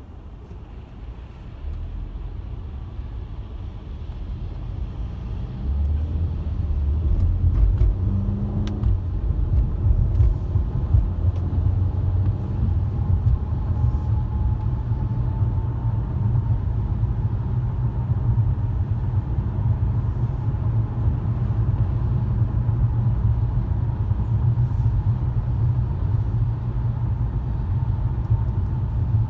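Car driving, heard as a steady low rumble of road and engine noise, growing louder in two steps over the first six seconds and then holding steady.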